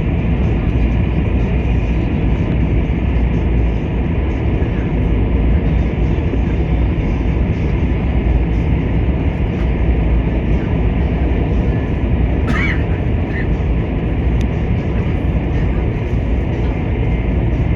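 Steady running noise inside the cabin of a KTX-Cheongryong high-speed train, a loud constant low rumble. A brief squeak sounds about twelve seconds in.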